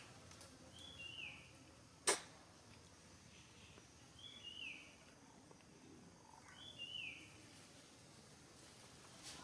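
A high two-note chirping call, each note sliding down in pitch, repeated three times at a few seconds' spacing. A single sharp click about two seconds in is the loudest sound.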